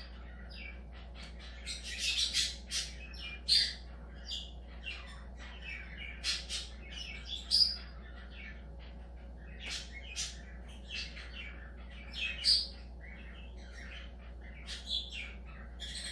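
Pet budgerigars chirping and chattering in short, irregular bursts of high calls, with a few louder squawks among them.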